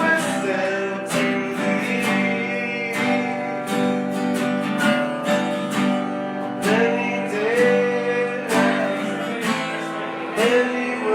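Acoustic guitar strummed in a steady rhythm, with a held melody line over it.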